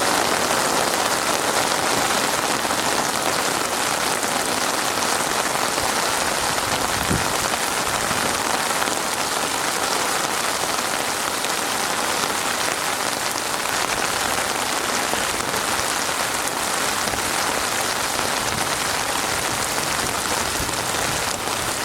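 Heavy rain falling steadily, an even hiss of countless drops on surfaces.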